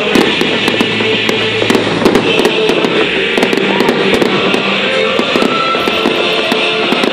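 Fireworks display going off: dense, rapid crackling and popping bursts, several a second, over music played through loudspeakers.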